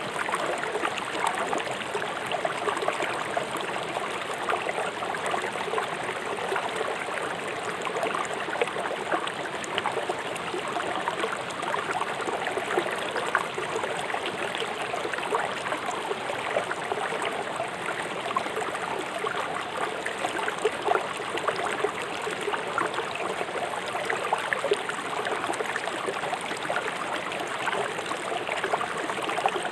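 A river flowing fast over rocks: a steady, dense rush of water with fine splashing and gurgling.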